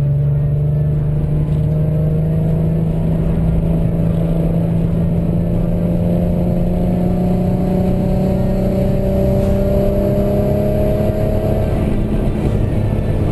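2004 Volkswagen R32's 3.2-litre VR6 engine heard from inside the cabin, pulling steadily in gear. Its drone rises slowly in pitch as the car gathers speed, then dips near the end.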